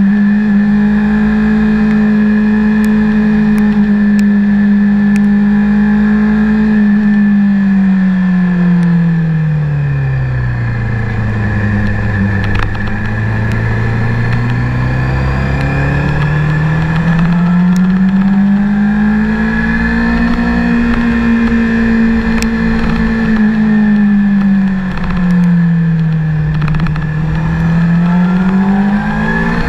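Honda CBR600RR's inline-four engine heard onboard with wind rushing over the microphone: revs held steady, then falling away as the bike slows about a third of the way through, pulling back up, easing off briefly near the end and climbing again.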